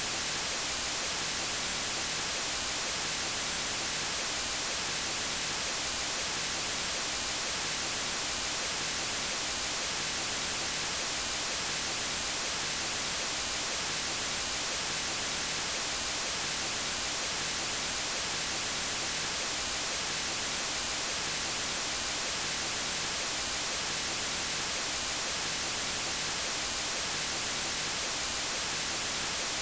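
Steady electronic white noise: an even hiss across all pitches, brighter in the highs, with no change or break.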